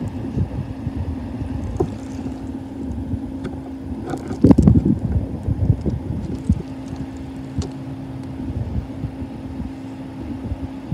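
Union Pacific manifest freight train running, a steady low drone and rumble with wind buffeting the microphone; one louder gust or clunk about four and a half seconds in.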